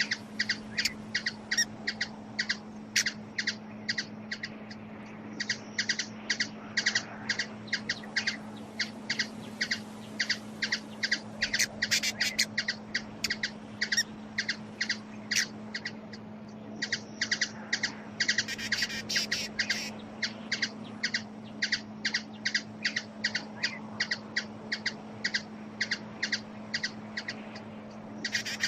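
Hummingbird chipping: a long run of short, sharp chip notes at about three a second, with quicker chattering stretches, over a steady low hum.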